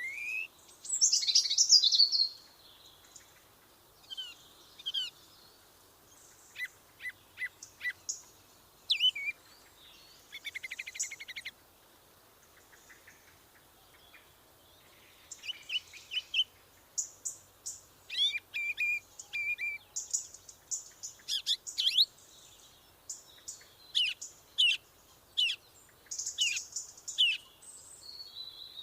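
Songbirds chirping and singing: many short, high chirps and quick trills from more than one bird, coming in clusters with brief pauses between.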